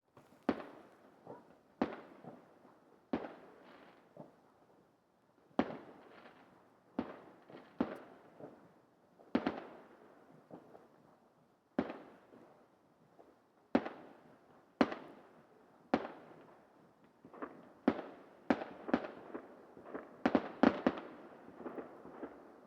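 Fireworks exploding: single sharp bangs, each trailing off in an echo, at irregular gaps of one to two seconds, coming in quicker succession near the end.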